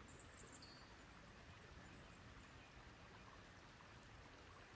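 Near silence: faint outdoor ambience, with two brief faint high chirps in the first second.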